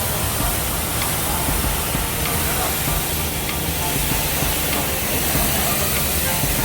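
Steady hissing rush from car wash equipment spraying the car, even in level throughout.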